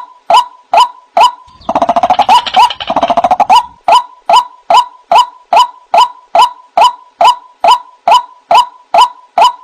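White-breasted waterhen calling: a steady series of short, rising "wak" notes, about two and a half a second. About one and a half seconds in, a louder, rapid rattling run of notes takes over for about two seconds, and then the even series resumes.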